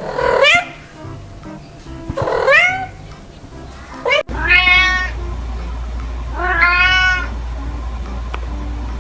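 Four cat meows about two seconds apart, each rising and then falling in pitch, the last two longer and fuller, over faint background music.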